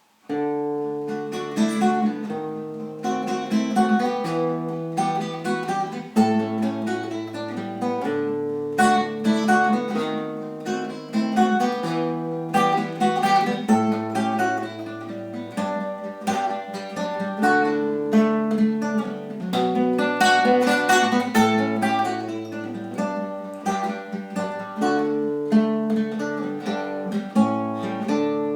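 Acoustic guitar playing a picked and strummed chord introduction to a song, the chords changing every second or two.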